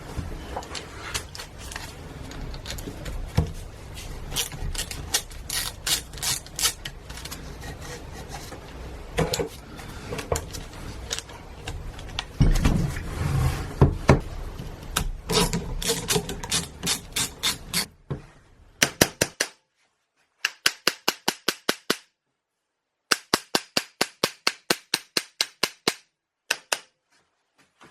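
Hand tools working on a starter motor: irregular metal clinks and knocks, then from about two-thirds in, runs of quick, evenly spaced clicks, about five a second, like a ratchet wrench turning bolts.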